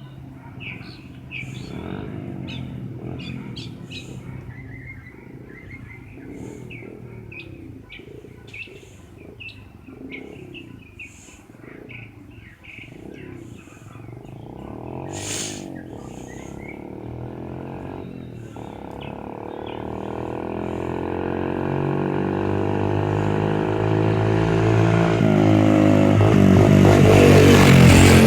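Birds chirping over a faint low hum, then a dirt bike engine coming closer, growing steadily louder from about halfway through and loudest near the end.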